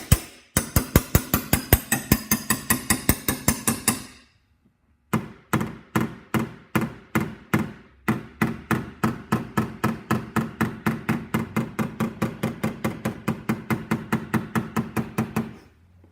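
PDR slapper striking a car door's sheet metal in quick, even taps, about five a second, each with a short metallic ring. The strikes pause for about a second a little after four seconds in, then resume. The slapping knocks down the raised crown around the door dent.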